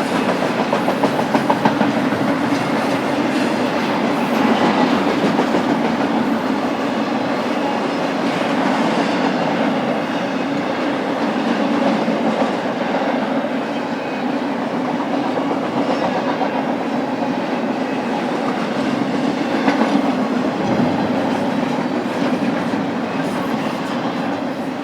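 A BNSF freight train's cars rolling steadily past, wheels clacking over the rail joints.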